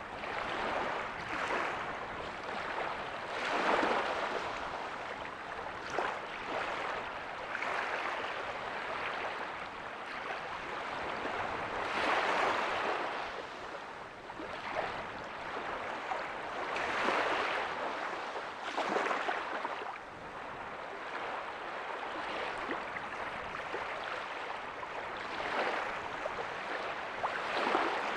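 Small ocean waves breaking on a beach: a steady wash of surf that swells every few seconds as each wave breaks and runs up the sand.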